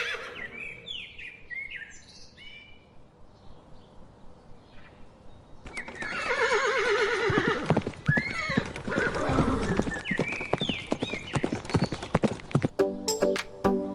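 A horse whinnying, a long wavering neigh with hooves clip-clopping through it, after a few faint high chirps. Music begins near the end.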